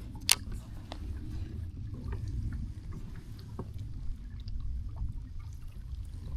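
Water lapping and sloshing against a kayak hull, over a steady low rumble of wind on the microphone, with a sharp click shortly after the start and a few faint ticks.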